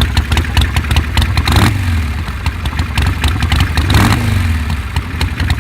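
1986 Harley-Davidson Sportster's Evolution V-twin, bored out to 1200 cc and breathing through Vance & Hines pipes, idling as it warms up from a cold start. The throttle is blipped briefly twice, about one and a half and four seconds in.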